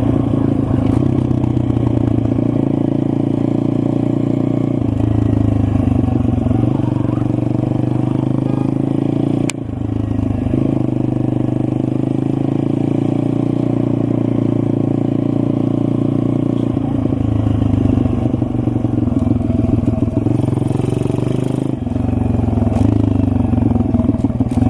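SSR 160 pit bike's 160cc single-cylinder four-stroke engine running while riding, its pitch rising and falling several times with throttle and gear changes. A single sharp click partway through.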